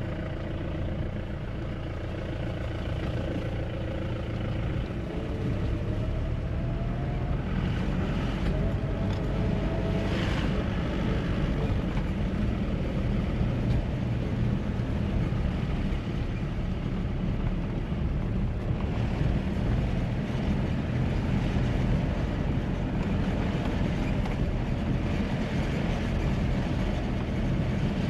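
2013 Mahindra Bolero SUV's diesel engine and road noise while driving. Over the first several seconds the engine note rises and grows louder as the vehicle picks up speed, and then it runs steadily.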